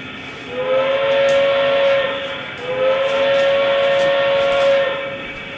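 Steam whistle from an HO-scale model steam locomotive's sound decoder, played through its small onboard speaker: two long, steady blasts, the second a little longer than the first.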